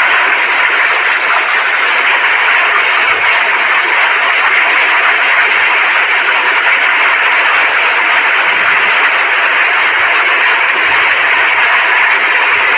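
Heavy rain mixed with hail pouring down, a steady loud hiss.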